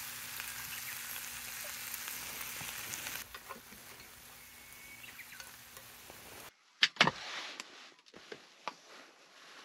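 Chicken and vegetables sizzling in a pan over a fire as soy sauce is poured in; the sizzle eases about three seconds in while the food is stirred with chopsticks. Near the end it gives way to two sharp clicks and light taps as a small rice cooker's lid is opened.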